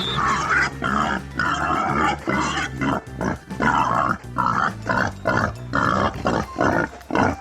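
An animal making a rapid series of short, harsh grunting and squealing calls, about one or two a second, over background music.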